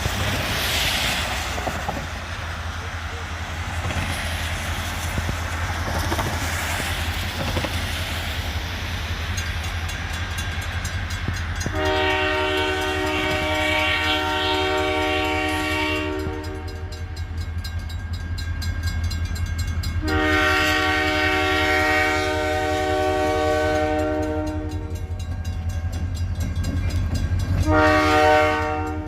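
Diesel freight locomotive rumbling as its multi-chime air horn sounds a grade-crossing signal: two long blasts, then a short one near the end. A rushing noise fills the first few seconds before the horn.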